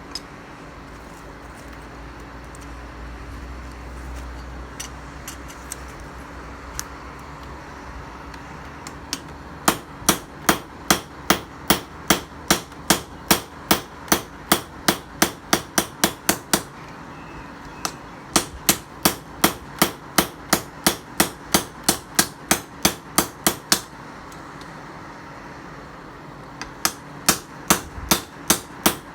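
Hand hammer striking steel on an anvil, forging the tiller-blade knife, in three runs of sharp ringing blows at about two to three a second, with pauses between runs and only a few light taps in the first third.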